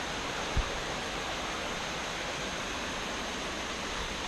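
Steady rush of a waterfall, with one brief low thump about half a second in.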